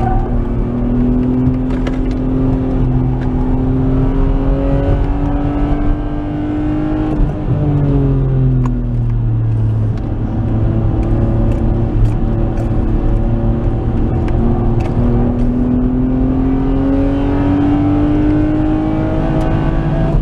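Nissan Skyline R33's RB20E 2.0-litre SOHC straight-six engine heard from inside the cabin at track pace. Its pitch climbs steadily, falls for about two seconds around seven seconds in, holds lower, then climbs again through the second half.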